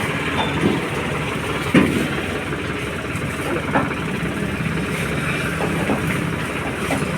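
Tractor diesel engine running steadily at idle, with a few sharp knocks on top, the loudest about two seconds in.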